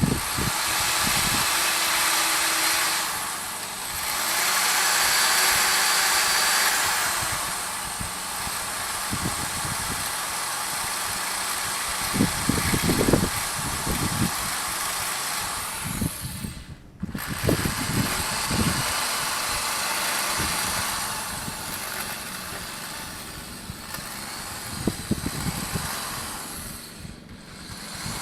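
A rotary grinding tool with a burr, cutting sharp edges off an engine block: a steady, loud, hissing whine with irregular knocks as the burr bites the metal. It stops briefly about 17 s in and again near the end.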